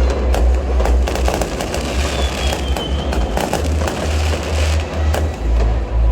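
Fireworks display: many sharp bangs and crackles in quick succession. A falling whistle comes about two seconds in.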